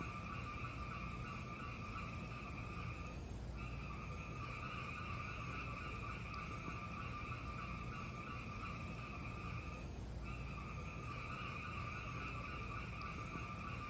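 Steady hiss of a fireplace fire with only faint crackles, briefly dropping out about three and a half seconds in and again about ten seconds in.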